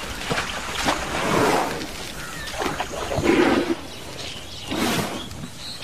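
Elephants feeding at the water's edge: irregular splashing and swishing of water as plants are pulled and shaken clean. About three seconds in comes a short low animal call.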